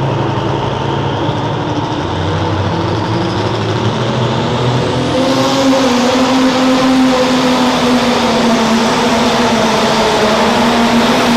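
Light limited super stock pulling tractor's turbocharged diesel engine running hard, rising in pitch and getting louder about five seconds in, then holding at high revs.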